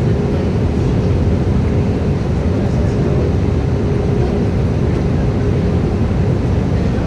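Steady cabin noise of an Airbus A318-111 on approach: the rush of airflow and the running CFM56 engines, with a steady hum throughout.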